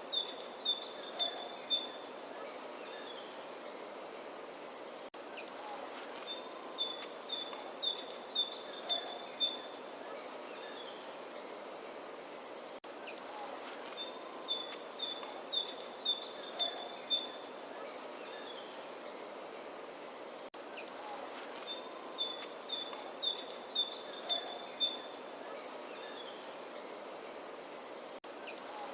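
A songbird singing: the same phrase of quick falling notes followed by a run of repeated chirps on two alternating pitches comes round about every eight seconds, over a steady outdoor hiss.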